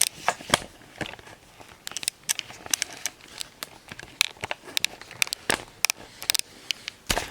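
Gift wrapping crinkling and crackling in irregular sharp bursts as a present is handled and unwrapped.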